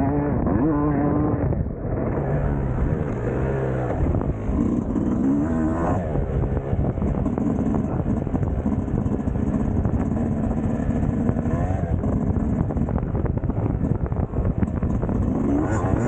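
Two-stroke single-cylinder engine of a Yamaha YZ250 motocross bike being ridden, revving up and backing off again and again as the rider accelerates out of sections and eases off.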